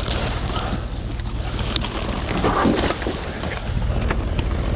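Wind buffeting the microphone, with scattered knocks and a burst of rustling about two and a half seconds in as junk is handled in a dumpster.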